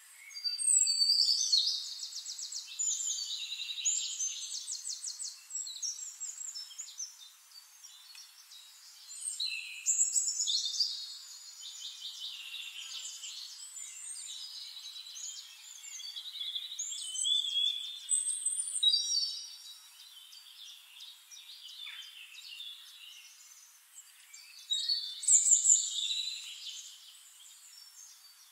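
Songbirds singing: a run of separate song phrases made of rapid trills and chirps, loudest about a second in, around ten seconds in and again near the end.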